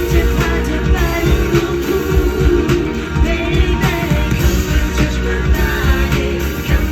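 Live pop-rock band playing with heavy bass and a steady beat, and a singing voice over it.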